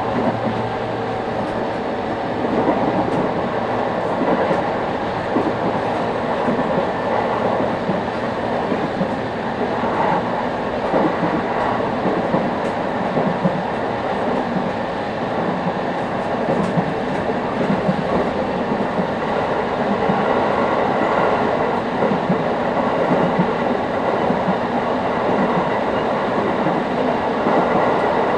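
Steady running noise inside a JR East 701 series 5500-subseries electric train with GTO-inverter traction, heard from the passenger cabin: the rumble of wheels on rail and the hum of the running gear while the train is under way between stations.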